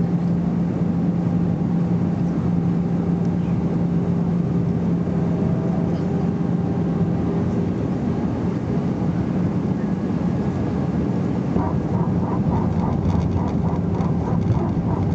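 Airbus A320 cabin noise in flight: a steady drone of engines and airflow with a low, even hum.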